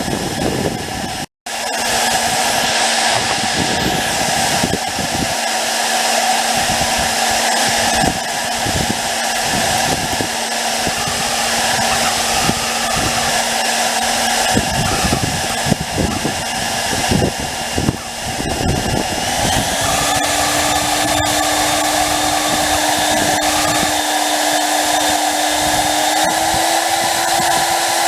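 Electric startup blower on a small charcoal gasifier running steadily, with a whine that steps up in pitch twice in the second half; a few light knocks partway through.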